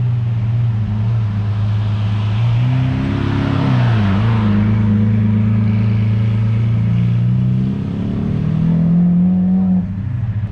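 Lamborghini Aventador V12 running at low speed as it drives up and passes close by about four seconds in, its pitch dipping as it goes past. Near the end an engine revs up briefly, then drops away.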